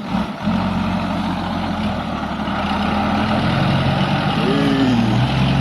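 Dump truck's diesel engine running steadily; its note shifts lower around four to five seconds in.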